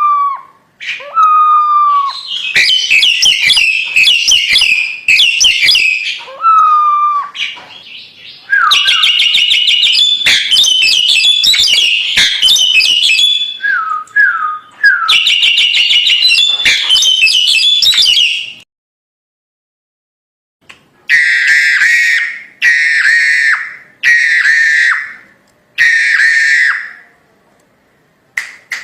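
Crested myna calling loudly: short falling whistles mixed with long bursts of rapid, harsh chattering. About two-thirds of the way in it stops for two seconds, then gives four short chattering phrases in a row.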